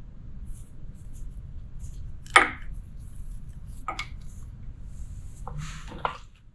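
A few sharp metallic knocks and clinks from tools and engine parts being handled, the loudest about two and a half seconds in, over a low steady rumble.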